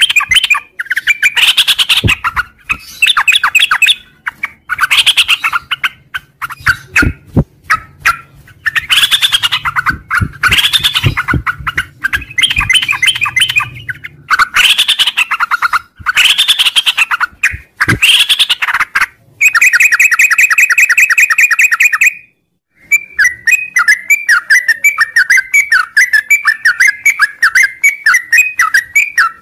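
Yellow-vented bulbul singing: loud, bubbly warbled phrases repeated with short pauses. About 19 s in comes a fast, even trill, then a brief break and a long run of rapid chattering notes.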